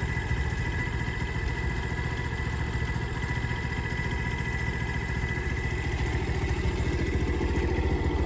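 Motorcycle engine running steadily, getting slightly louder near the end.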